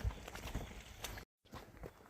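Footsteps of a person walking on a forest trail: irregular soft thumps with small crunching clicks, broken by a moment of complete silence partway through.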